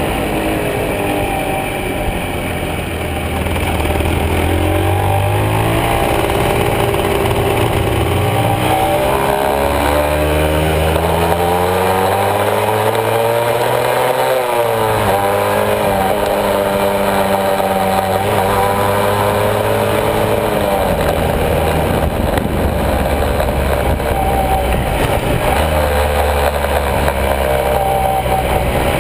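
Honda MB100 (H100A) single-cylinder two-stroke motorcycle engine, heard from on board while riding, revving up and easing off, its pitch climbing and falling several times with a sharp drop about halfway through.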